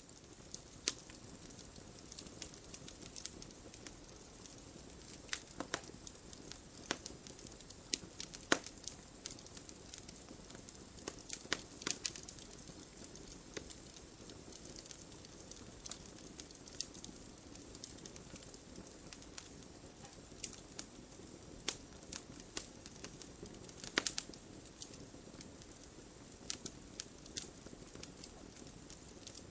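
Wood fire crackling: irregular sharp pops and snaps over a soft steady hiss, with a few louder pops scattered among them.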